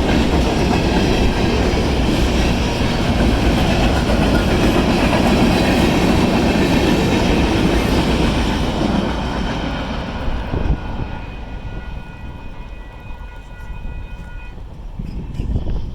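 Freight cars of a manifest train rolling past, a steady rumble with wheel clickety-clack that fades after about ten seconds as the end of the train goes by. Near the end a steady high ringing tone sounds for a few seconds and cuts off.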